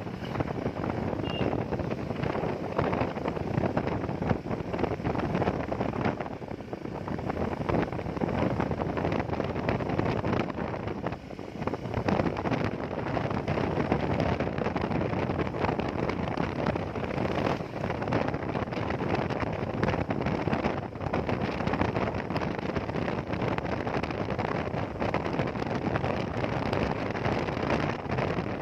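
Wind rushing over the microphone on a moving motorcycle, mixed with steady road and engine noise. It eases briefly a couple of times, most clearly about eleven seconds in.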